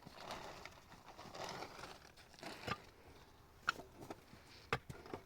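Soft rustling and crinkling, then a few sharp, separate knocks in the second half.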